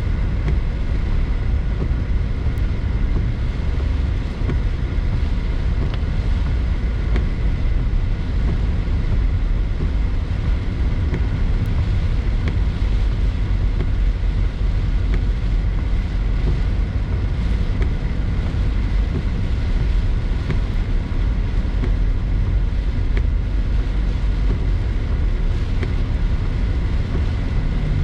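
A car driving along steadily, its engine and tyres making a continuous low rumble with road hiss.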